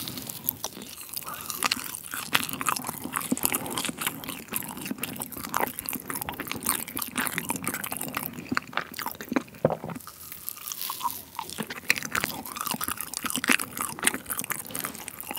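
Close-miked chewing of a bite of dense, soft cheese terrine, like a cheesecake: a steady run of small moist clicks and smacks from the mouth.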